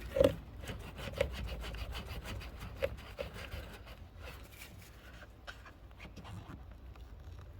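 Scratchy rubbing with many small clicks and knocks from hands fumbling at plastic parts, an electrical connector and trim, while the phone is held close. The sound is busiest over the first few seconds, then thins out.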